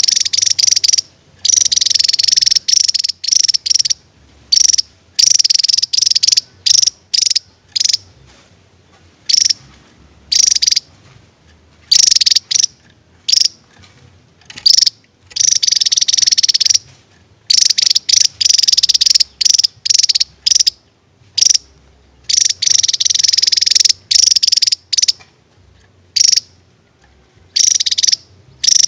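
Javan tesia singing: loud, high-pitched rapid trills in bursts of one to two seconds, alternating with short sharp notes and brief pauses throughout.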